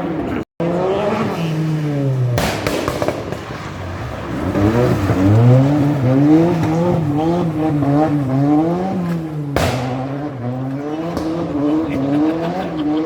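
Rally car engines revving hard through a stage, the revs rising and falling over and over as they accelerate and change gear, in several short clips joined by cuts, with a brief dropout about half a second in.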